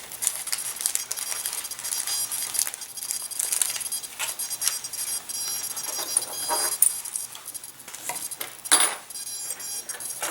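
Tiny servo screws and other small hardware clicking and clinking in irregular light taps and rattles as they are picked through by hand.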